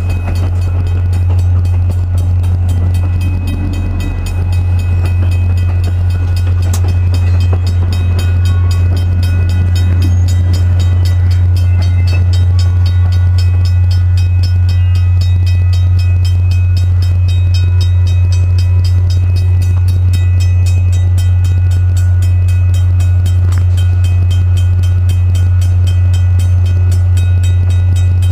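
Via Rail passenger train passing through a railroad crossing: a loud, steady low drone with several thin, steady high tones above it, growing a little louder about four seconds in and then holding.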